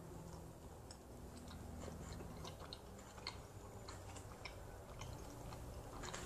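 A person biting into and chewing a slice of BBQ bacon cheeseburger pan pizza: faint, irregular clicky chewing sounds.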